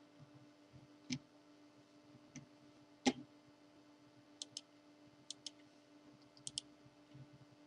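Faint computer mouse clicks: a couple of single clicks, then three quick pairs of clicks, over a low steady electrical hum.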